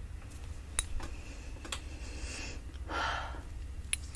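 A few light, sharp taps on a glass perfume bottle, and about three seconds in a short breathy rush of air.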